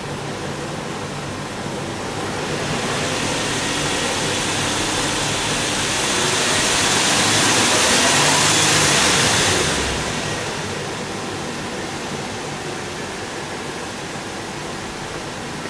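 Nissan Elgrand Rider S engine running with a rushing exhaust sound. The revs build slowly from a few seconds in, are held highest for a few seconds, then drop back to idle about ten seconds in.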